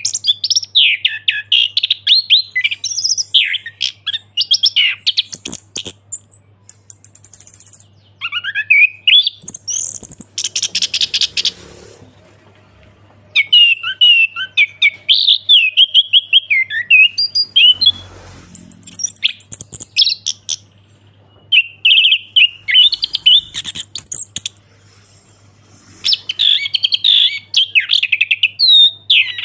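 Orange-headed thrush singing in full, open song: long bursts of fast, varied whistles and chirps, broken by a few short pauses. A faint steady low hum runs underneath.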